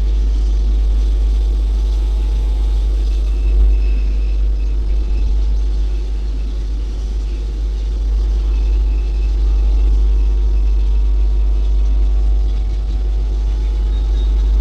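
Passenger train coach running along the track, a steady loud rumble with a constant hum, and wind buffeting the phone's microphone held out at the open door.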